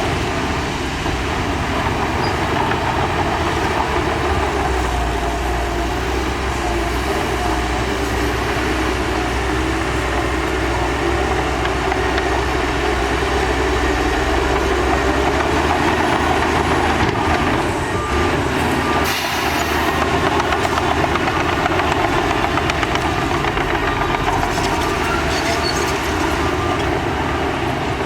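Heavy diesel earthmoving machinery running steadily under load, with a deep rumble that eases off about halfway through and a brief sharp noise about two-thirds of the way in.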